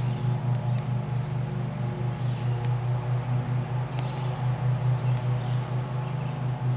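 A small engine, most likely a neighbor's lawn mower, running steadily with a regular throb. A few faint sharp crackles come through, around the middle.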